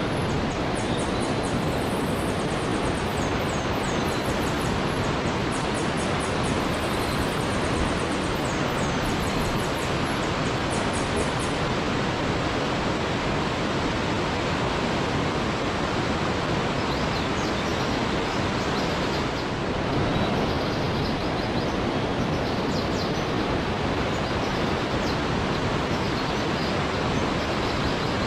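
Waterfall pouring steadily, with thin, high chirps over it for the first twelve seconds or so and again in the last ten.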